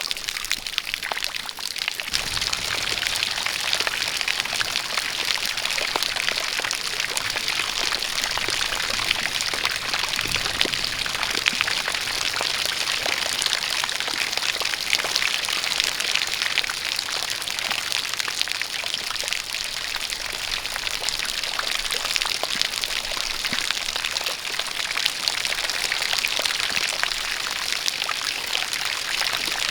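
Steady rain falling, with countless small drop impacts, over a running stream of water pouring down.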